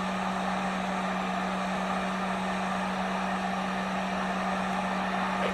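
Heat gun running steadily, a constant rush of air over a low, even motor hum, heating a vinyl dirt bike decal so its wrinkles can be worked out.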